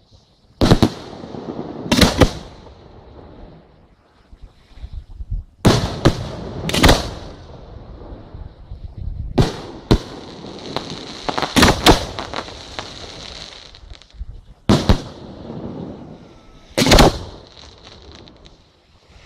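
Aerial fireworks bursting: about ten sharp booms at irregular intervals, each trailing off in a rumble, with a high hissing crackle for a few seconds around the middle.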